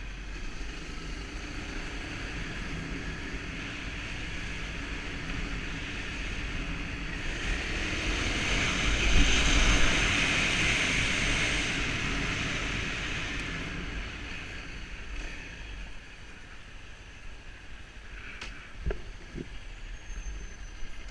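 Motorbike on the road: engine and wind noise that swell to their loudest about halfway through and then ease off, with a few short knocks near the end.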